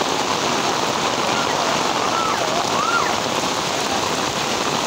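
Heavy rain falling steadily on concrete pavement, a dense even hiss. About two seconds in, a faint wavering high-pitched call sounds above it.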